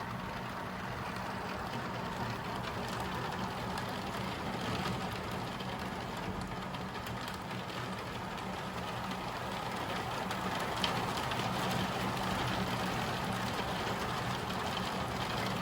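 Heavy thunderstorm rain falling steadily and growing slightly heavier, with a low steady hum underneath and a few faint taps.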